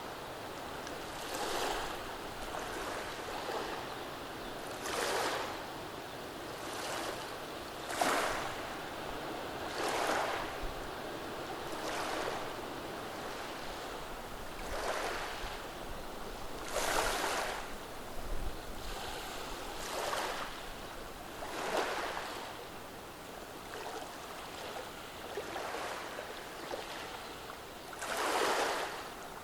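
Small waves washing over a beach of rounded stones, each surge breaking into a hiss of water running through the pebbles every two to three seconds, with the larger surges near the end.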